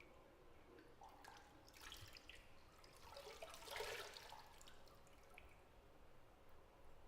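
Water in a bathtub, dripping and lapping softly, with a brief swell of splashing near the middle, then settling back to faint bathroom quiet.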